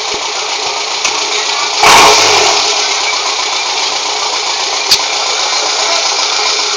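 Car engine running through a newly fitted aftermarket exhaust, with a short loud rev about two seconds in that quickly drops back, and a single sharp click near five seconds.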